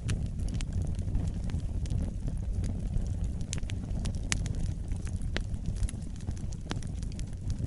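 Wood fire burning in a fireplace: a steady low rumble of the flames with sharp, irregular crackles and pops throughout.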